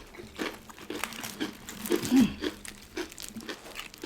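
Crisp crunching and crinkling of fried chicken being bitten and handled close to the microphone, a quick run of short sharp crackles.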